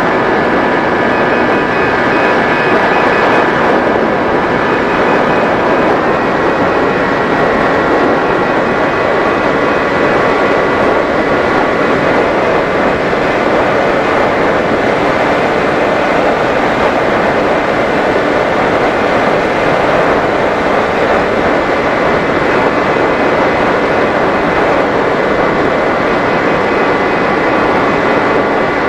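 Electric motor and propeller of a Mini Drak RC flying wing running steadily in flight, over a dense rush of air. The motor's whine steps up slightly in pitch about six seconds in.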